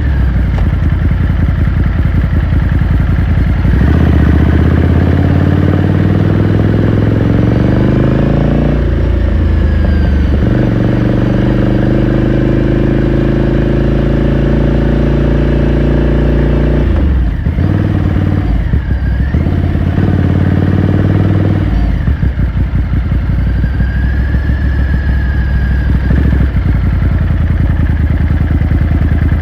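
2018 Ducati Scrambler Sixty2's 399 cc air-cooled L-twin running on the road. Its pitch rises for several seconds as it accelerates, then holds steady. About two-thirds of the way through it drops briefly off the throttle, then runs on steadily at a lower pitch.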